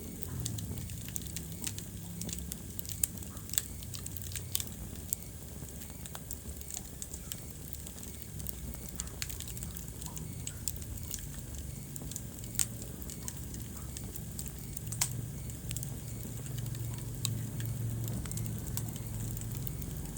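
Wood fire crackling in a fireplace: irregular sharp pops and snaps, a few louder ones now and then, over a low steady rumble.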